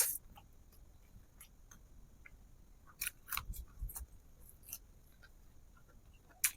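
Close-up eating sounds of a person chewing fish and rice: a few sharp, crisp mouth clicks, one loud at the start, a cluster about three seconds in and another near the end, with quiet between.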